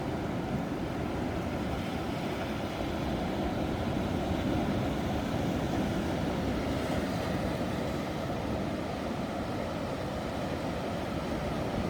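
Ocean waves washing in a steady, low, rushing roar that swells slightly a few seconds in.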